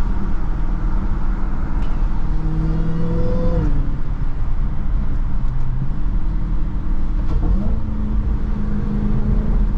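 Dodge Charger Hellcat's supercharged V8 through a Corsa Extreme exhaust, running with its supercharger whine, dropping in pitch about four seconds in and rising again near the end.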